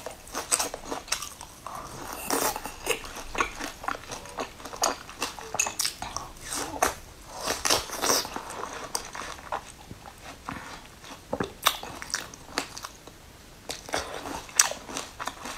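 A person biting and chewing a crusty, crumb-coated pastry with loud, irregular crisp crunches and wet chewing sounds.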